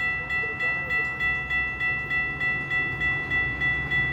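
Railroad grade-crossing warning bell ringing rapidly and evenly, about three strikes a second, over the low rumble of a train.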